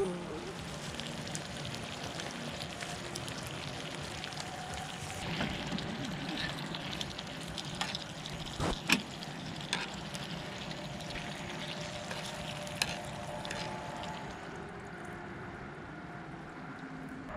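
Food sizzling on a hot griddle pan over a portable gas stove, a steady hiss, with metal tongs clicking against the pan a few times. Near the end the sizzle fades and liquid is poured from a plastic bottle into a steel bowl.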